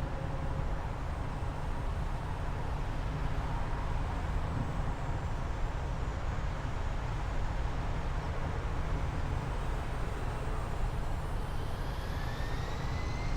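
Jet aircraft noise: a steady low rumble, joined about eleven seconds in by a slowly rising engine whine, as of turbine engines spooling up.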